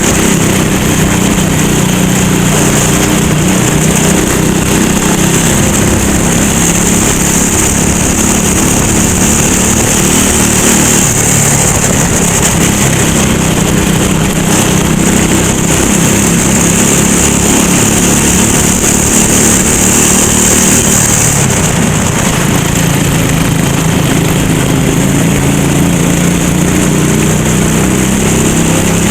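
Go-kart engine running hard around a race track, its pitch falling off and climbing again as it slows for corners and accelerates out, with a constant high hiss over it.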